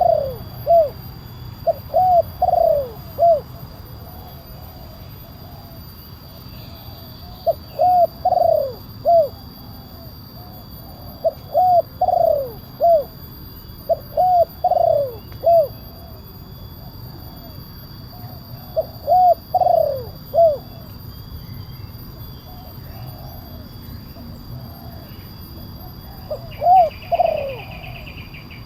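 Spotted dove (tekukur) cooing: short phrases of three or four arched coos, repeated every few seconds with a few longer pauses between phrases.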